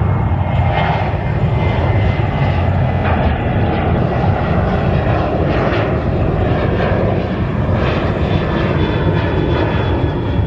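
Airliner engines running loud and steady, a dense rumbling noise with a faint high whine over it.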